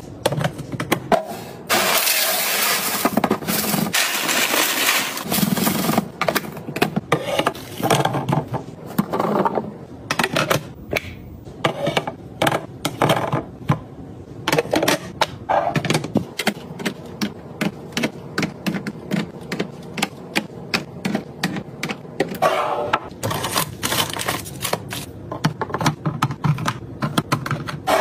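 Rapid clicking, tapping and clattering of containers, lids and packaging being handled while restocking a fridge, with a couple of longer stretches of rustling.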